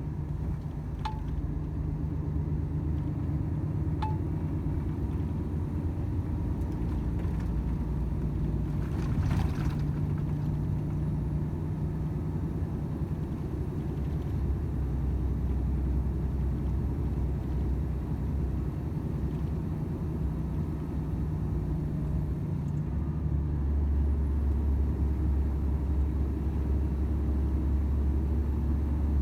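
Volvo FH 500 truck's 13-litre straight-six diesel running on the road with a steady low drone and road noise. About two-thirds of the way through, the engine note shifts lower and grows slightly louder.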